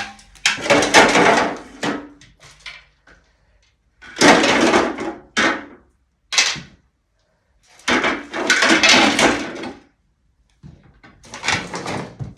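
Bursts of sliding, rattling and scraping as plastic fridge drawers, shelves and containers are pulled out and handled, about six times with short pauses between.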